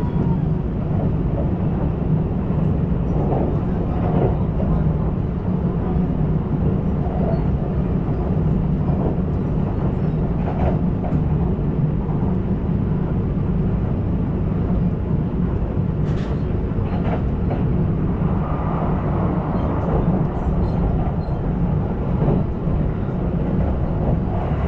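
Kintetsu train running along the line, heard from inside the passenger cabin: a steady low rumble of the wheels and running gear, with a few faint ticks.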